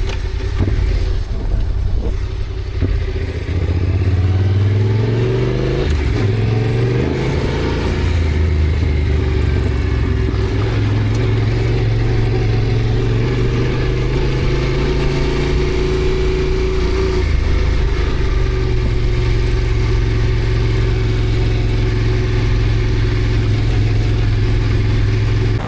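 Yamaha Ténéré adventure motorcycle engine pulling away, its pitch rising over the first few seconds as it accelerates, then running steadily at cruising speed over wind and road noise.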